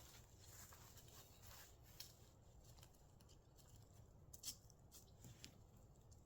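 Near silence, with a few faint scattered ticks; the clearest comes about four and a half seconds in.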